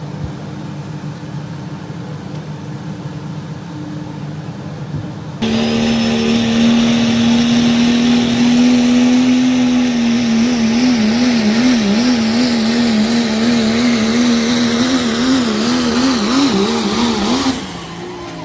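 Vehicle road and engine noise. About five seconds in, a loud sustained tone starts abruptly. It holds steady, then wavers up and down in pitch for several seconds before stopping near the end.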